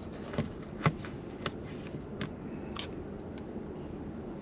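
Knife and fork cutting into a baked stuffed pepper, clicking and scraping against the dish: a series of short sharp clicks about every half second over a steady low background noise.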